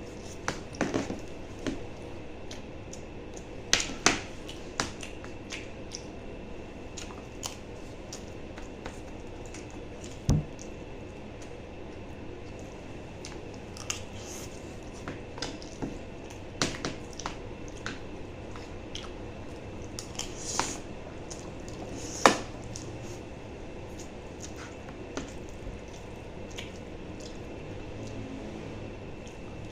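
Close-up eating sounds from a mukbang meal of eggplant omelette and mung bean stew: wet mouth smacks and chewing clicks at irregular intervals, with a few sharper clicks, the loudest about 22 seconds in.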